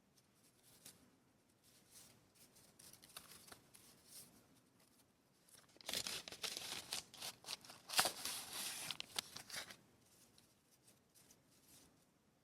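Paper and packaging rustling and crinkling as they are handled, in uneven bursts that are loudest for a few seconds in the middle.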